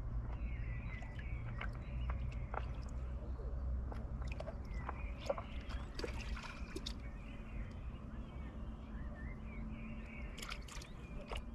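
A bird chirping repeatedly in short, quick calls, densest near the start and again near the end, over a low rumble with scattered sharp clicks.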